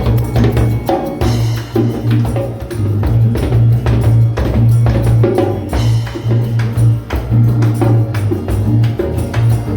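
Ethno-folk jam music: hand percussion with a jingling tambourine-like beat over a steady low droning tone that breaks off briefly every second or two.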